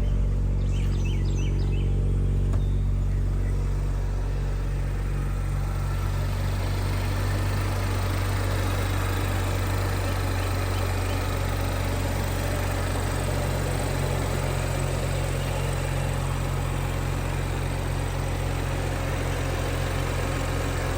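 2013 BMW 135i's 3.0-litre turbocharged inline-six idling steadily just after a cold start. It is a little louder for the first few seconds and then settles to an even idle.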